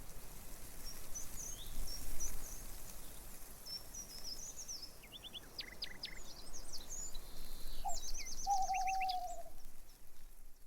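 Several wild birds calling over a steady background hiss: quick high chirps through the first half, then a rapid run of repeated notes and a lower, drawn-out whistled note about eight seconds in.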